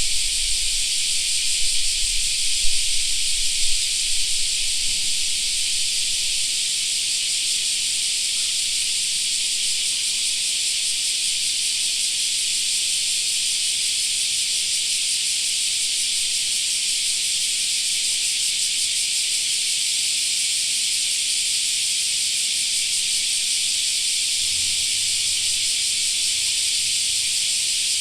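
A chorus of cicadas singing in a continuous, even, high-pitched shrill drone that does not let up.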